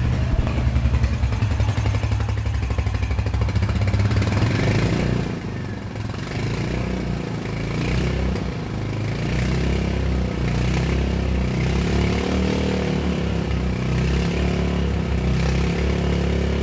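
Royal Enfield Hunter 350's single-cylinder 349 cc engine running through its stock exhaust, steady for the first few seconds, then revved up and down several times in the second half.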